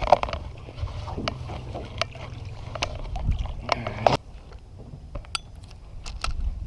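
Light clicks and knocks of handling in a small boat over a low, steady rumble that drops off about four seconds in.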